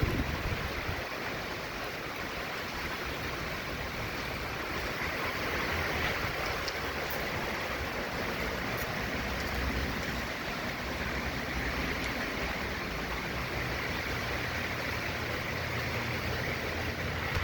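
Hurricane wind and heavy rain, a steady rushing noise, with wind buffeting the microphone in low rumbles that swell and ease.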